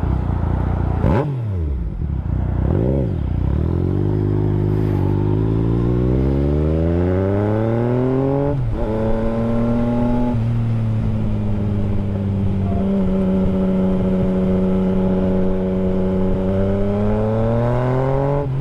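Yamaha FZ-09's 847 cc inline-three engine under way on a ride. Its revs drop at a gear change about a second in, then rise for several seconds as the bike accelerates. They drop again at an upshift about halfway through, then hold steady and climb slowly.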